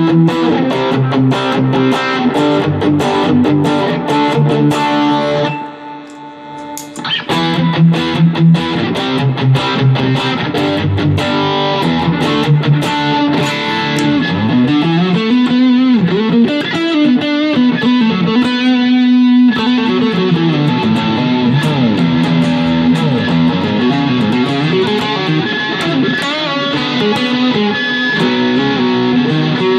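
Electric guitar played through a Joyo American Sound amp-simulator pedal and a Boss CS-2 compressor pedal, with lightly driven picked notes and chords. Its level drops briefly about six seconds in, and sliding, bending notes follow in the middle.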